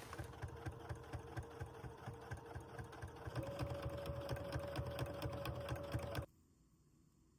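A small motor running with a rapid, even ticking and a low hum; its tone steps up slightly about halfway through, then the sound cuts off abruptly near the end.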